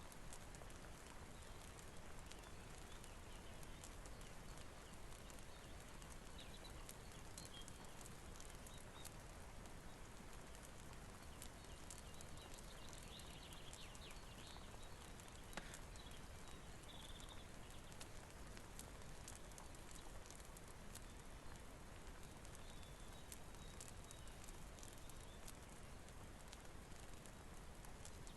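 Faint, steady rain hiss mixed with the sharp, scattered crackles of a wood fire.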